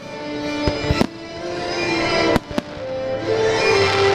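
Fireworks bursting over sustained show music: three sharp bangs, one about a second in and two close together about halfway through.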